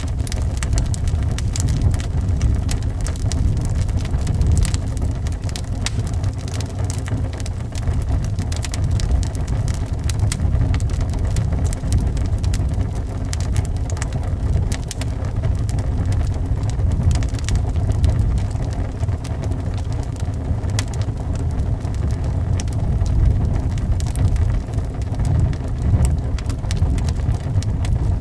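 Wood fire crackling in a fireplace, with many small sharp pops and snaps, over a steady low rumble of wind.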